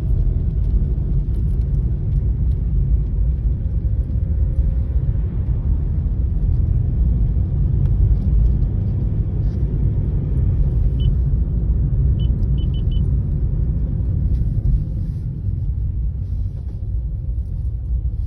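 Loud, steady low rumble with no clear rhythm, with a few short high beeps about two-thirds of the way through.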